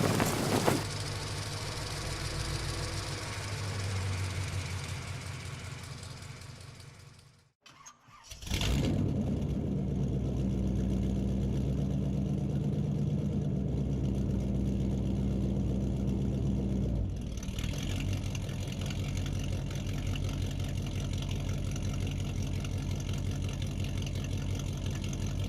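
A vehicle engine running steadily, then dying away to silence about seven seconds in. About a second later an engine starts abruptly and runs evenly, changing tone slightly about halfway through.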